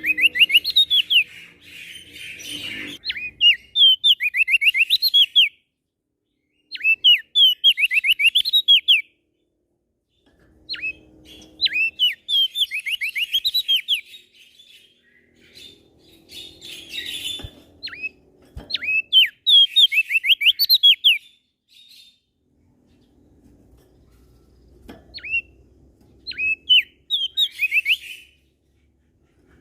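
A songbird singing in loud, quick phrases, each a run of several sharp down-slurred notes with fainter high chips above, and short pauses between phrases. A faint low hum runs under some of the phrases.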